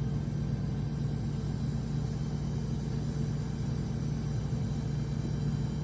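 Truck engine running steadily at idle, a constant low drone.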